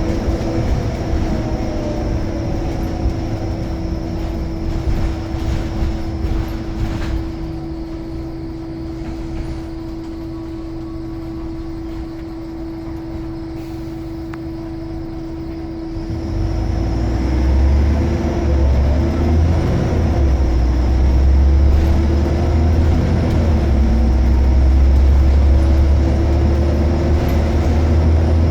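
Scania L94UB Omnicity bus's diesel engine and driveline running, with a steady whine over it. The sound eases to a quieter stretch, then from a little past halfway a much louder, low engine rumble builds and holds as the bus pulls away under power.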